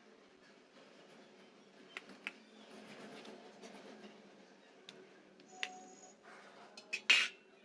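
Kitchen utensil clatter: a few light clicks, then a metal clink with a short ring about halfway through, and the loudest knock near the end.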